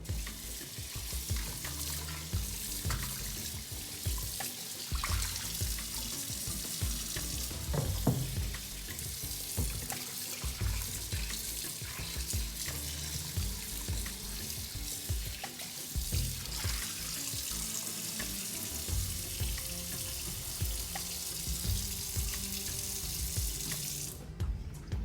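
Kitchen tap running into a sink in a steady stream, turned off shortly before the end.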